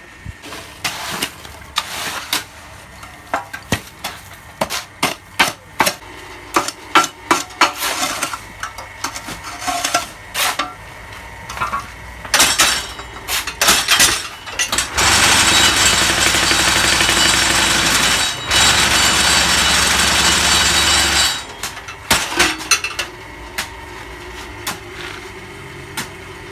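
Concrete block (batako) making machine at work: irregular metal clanks and knocks, then about six seconds of loud steady vibrating rattle that briefly drops out partway, followed by a few more knocks and a motor running with a steady low hum near the end.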